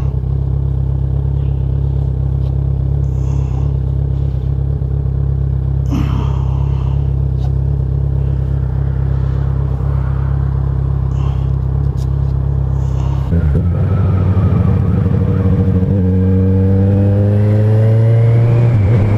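Kawasaki Z1000SX's inline-four engine running steadily for about thirteen seconds, then pulling harder, its pitch rising as the motorcycle accelerates and then levelling off near the end.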